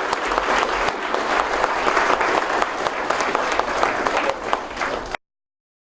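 Audience applauding, a dense patter of many hands clapping that eases slightly before cutting off abruptly about five seconds in.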